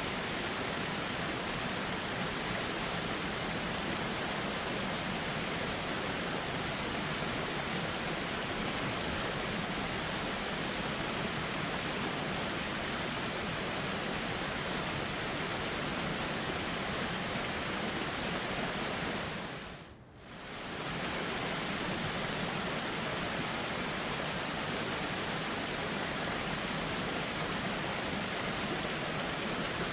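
Flowing river water, a steady rushing noise. It briefly fades down and comes back up about two-thirds of the way through.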